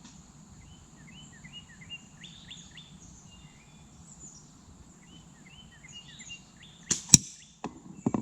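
Small birds chirping in short repeated notes, then near the end a shot at a target: two sharp cracks a quarter second apart, the second the loudest, followed by two lighter knocks.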